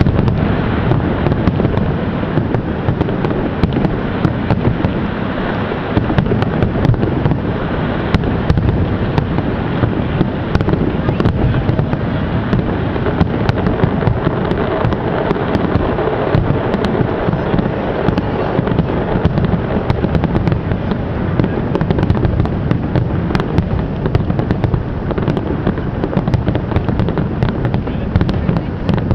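Fireworks going off without a break: a steady, dense rumble of bursts with many sharp crackling pops scattered through it.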